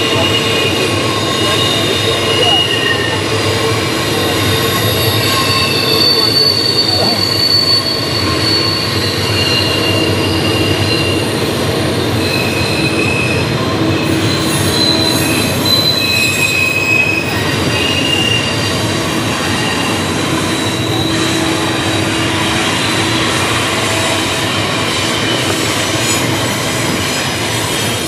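Double-stack intermodal freight cars rolling past on a tight curve, with a steady rumble and clatter of steel wheels on rail. Over it come short, high-pitched wheel squeals that come and go, made as the wheel flanges grind against the curved rail.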